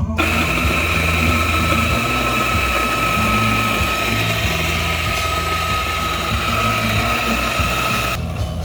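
Electric coffee grinder motor running steadily with a high whine, starting abruptly and cutting off suddenly about eight seconds in, over background music.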